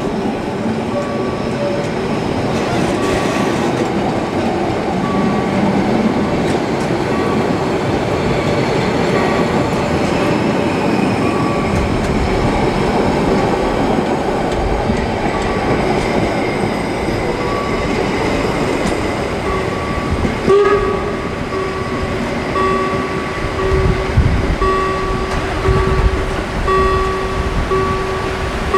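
Harz narrow-gauge steam train's coaches rolling past with steady wheel and track noise. From about two-thirds of the way in, a beeping warning tone repeats about once a second from the level-crossing signal.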